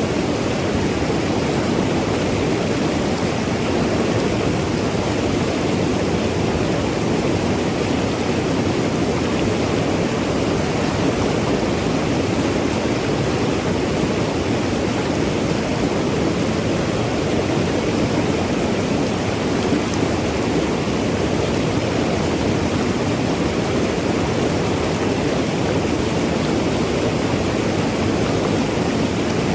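Mountain river rushing and gurgling over rocks, a steady full water noise with no breaks.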